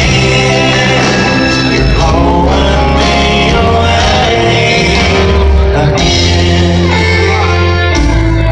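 Live country band playing at full volume with a male lead vocal singing over bass, drums and guitars.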